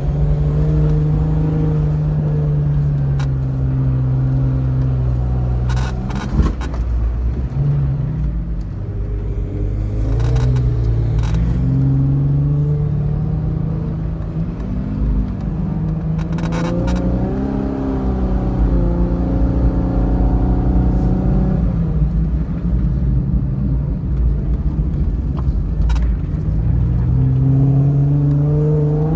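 Off-road vehicle engine working hard in deep sand, its pitch rising and falling over and over as it revs up the dunes and eases off over the crests, over a low rumble. A few sharp knocks cut through it now and then.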